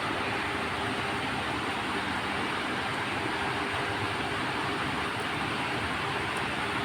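Heavy rain falling in a steady, even hiss, with a faint low hum underneath.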